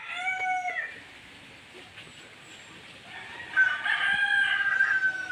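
A rooster crowing twice: a short call at the start, then a longer, level crow that begins about three and a half seconds in.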